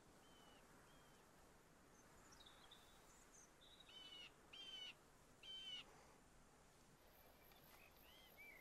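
Bird calls over faint outdoor ambience: a few short chirps, then three louder calls about half a second each in quick succession around the middle, and a couple of short rising chirps near the end.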